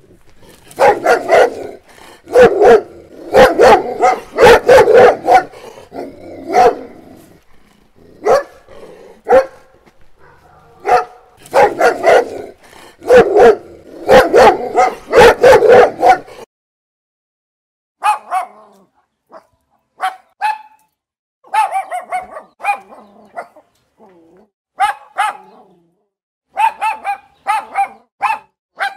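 Doberman barking in rapid, loud volleys of lower-pitched barks for about sixteen seconds. After a short pause comes a Boston Terrier's sharper, higher-pitched barks, in short runs with gaps between them.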